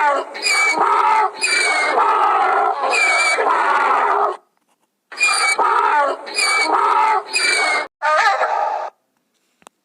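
Pig squealing loudly, about seven shrill squeals of roughly a second each, with a short pause about halfway through.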